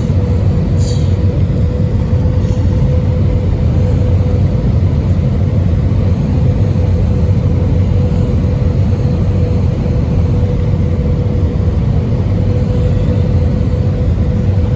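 Steady cabin rumble of an Airbus A320 from inside the passenger cabin: deep engine and airframe noise with a steady mid-pitched hum held throughout.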